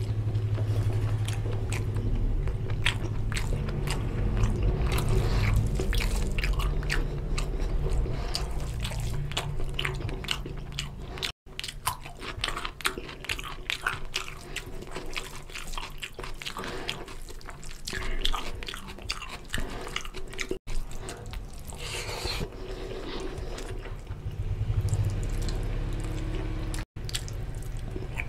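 Close-miked mouth sounds of a person eating rice and oily mutton curry by hand: steady wet chewing and lip smacking. The sound cuts out briefly three times.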